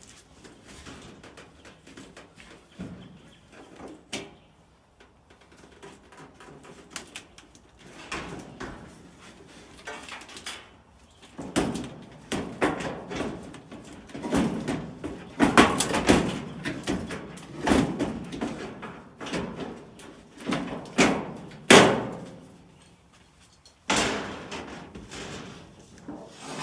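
Sheet-metal parts of a dryer cabinet being handled and fitted: irregular clunks, knocks and scrapes, busiest and loudest in the second half.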